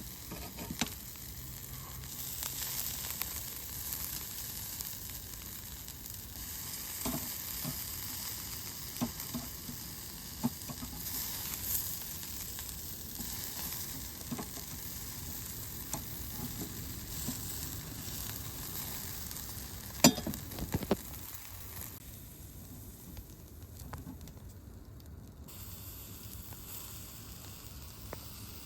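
Food sizzling in a hot pan over a camp fire: a steady frying hiss with scattered small pops, and one sharp knock about twenty seconds in.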